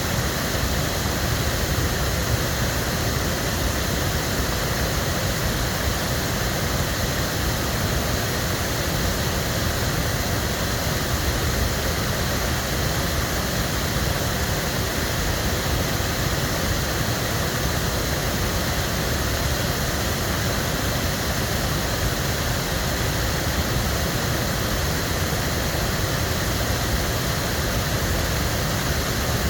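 Waterfall: water pouring steadily down the fall in a constant, even rush.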